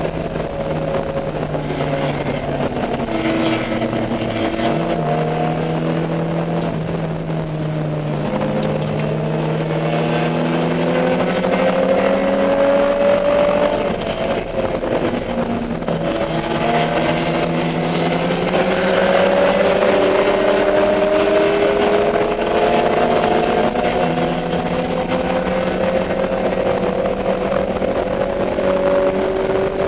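Dodge Neon race car's four-cylinder engine heard from on board at racing speed. Its pitch climbs slowly under throttle and drops back several times, at gear changes or lifts for corners, over steady road and wind noise.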